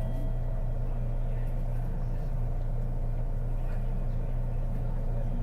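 Cabin running noise of a Kobe New Transit 2020-series automated rubber-tyred train, just after leaving a station: a steady low hum under an even rumble, with the cabin heater running.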